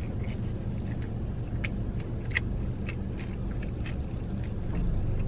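A person chewing a crispy fried chicken thigh with the mouth closed, giving scattered small crunchy clicks, over a steady low hum inside a car.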